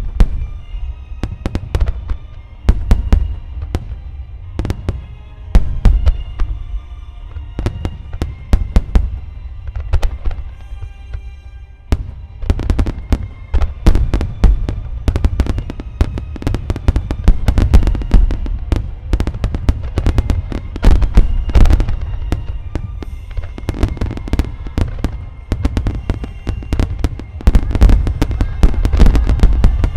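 Aerial firework shells bursting in quick succession, with deep booms and sharp cracks coming thickest in the second half. Music plays underneath.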